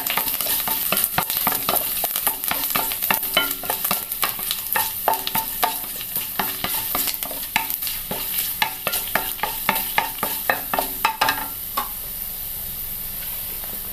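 Garlic, curry leaves and chillies sizzling in hot coconut oil in a non-stick kadai, with a wooden spatula scraping and knocking against the pan as they are stirred. The garlic is being fried until it browns. The stirring stops near the end, leaving only the steady sizzle.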